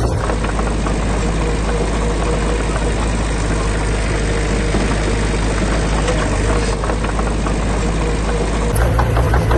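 Heavy construction machine's diesel engine running steadily, a continuous low drone with a rough, noisy clatter above it.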